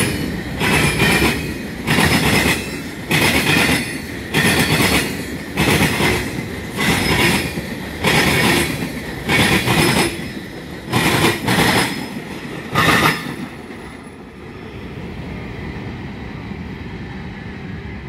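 Wheels of a slow-moving CSX freight train clattering over the rail in loud rhythmic bursts about once a second as the cars roll past. The clatter stops about 13 seconds in as the last car goes by, leaving a quieter steady background noise.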